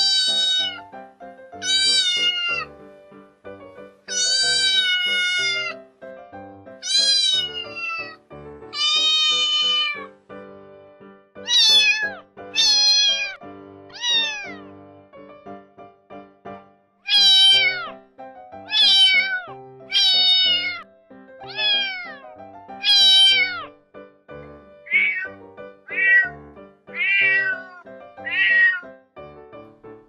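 Kitten meowing over and over, with background music. The meows come about one to two seconds apart, each falling in pitch, with a short pause about halfway through. The last few near the end are shorter.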